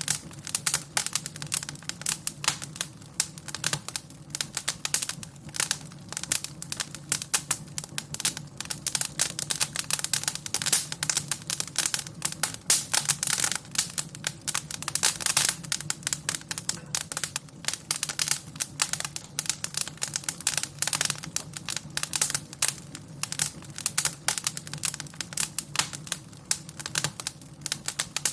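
Wood fire in a fireplace crackling steadily: dense, irregular snaps and pops over a low steady rumble.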